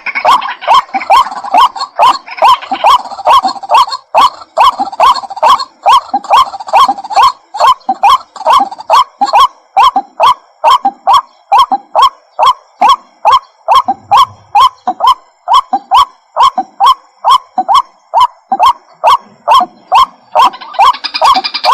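White-breasted waterhen calling, a loud note repeated over and over at an even pace of about three a second.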